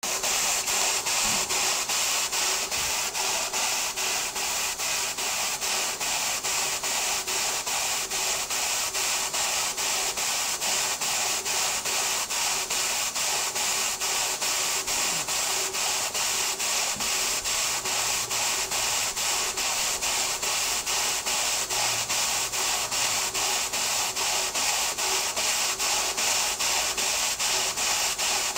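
Stuart model beam engine running steadily on steam, its exhaust beating evenly at about two to three strokes a second over a continuous hiss.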